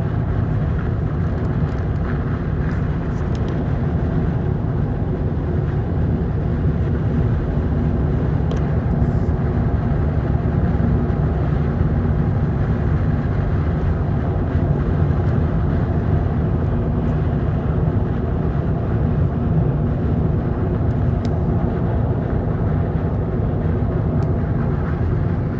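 Steady wind and road noise inside a Volkswagen GTI's cabin while driving, heavy in the low end with a faint hum of engine tones. This is the cabin wind noise the owner is trying to reproduce.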